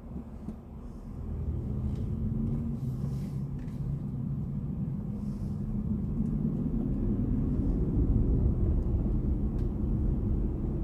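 Low road and tyre rumble of a BMW i4 M50 electric car being driven, growing louder over the first two seconds and then holding steady.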